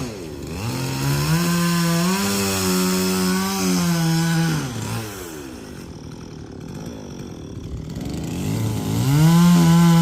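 Two-stroke chainsaw running at full throttle while cutting timber. It drops back to a lower speed about five seconds in, then revs up high again near the end.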